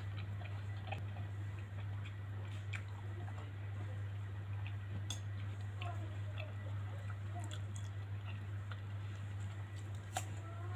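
Close-miked chewing and mouth sounds of eating mango with shrimp paste: soft wet clicks and smacks scattered through, with one sharper click near the end, over a steady low hum.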